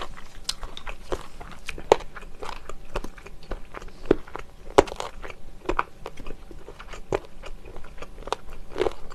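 Close-miked eating sounds of someone chewing soy-braised chicken with Chinese glass noodles: irregular wet clicks and smacks, with a few sharper clicks about two and five seconds in.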